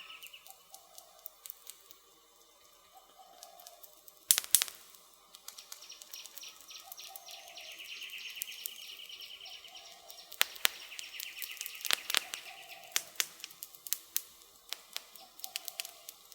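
Wood fire crackling with frequent small snaps and a few sharp pops, the loudest a pair about four seconds in and more around ten to twelve seconds. Birds call in the background: a low call repeated every second or two, and a high trill midway.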